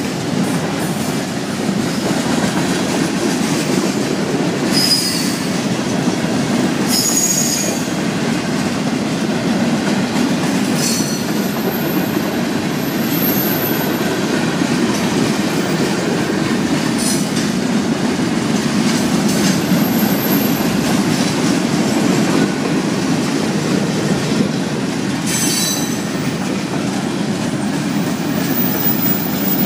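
Florida East Coast Railway freight train of tank cars and boxcars rolling past: a steady rumble and clatter of wheels on rail, with several brief high wheel squeals.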